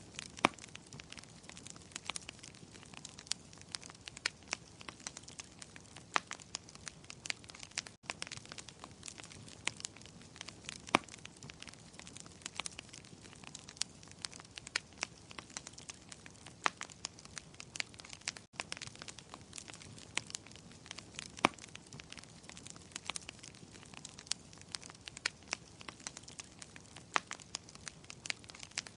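Wood fire crackling in a fireplace: a soft hiss broken by irregular sharp pops and snaps, a few much louder than the rest. The sound cuts out for an instant twice, about a third and two thirds of the way through.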